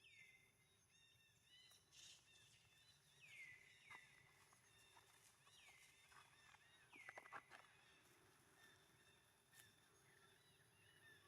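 Faint, high animal calls, each falling in pitch and then levelling off, about five times, with a few light clicks.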